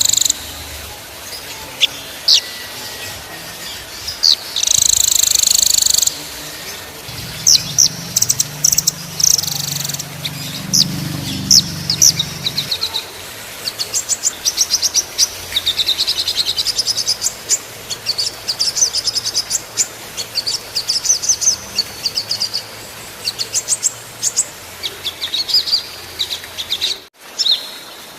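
Small songbirds singing in a dense bird-training (masteran) recording: rapid high-pitched trills and sharp, clipped 'shot' calls follow one another closely. The song cuts out for a moment near the end, then resumes.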